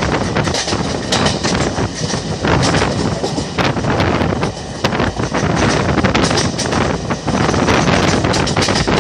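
Indian Railways passenger coach running at speed: steady wheel-on-rail rumble with rapid clattering, and wind buffeting the microphone.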